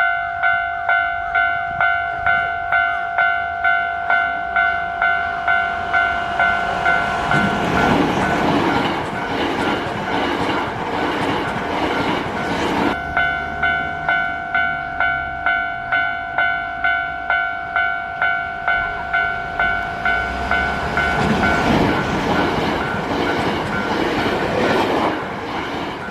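Electronic railway level-crossing warning bell ringing about twice a second as a Hankyu commuter train runs past, the rush of wheels and running gear swelling over the bell. The sound breaks off suddenly about halfway, then the bell rings again and a second train passes.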